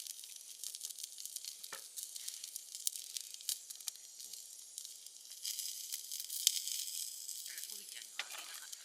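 Food frying in a pan over a fire: a steady sizzle with many small pops and crackles, a little louder just past the middle.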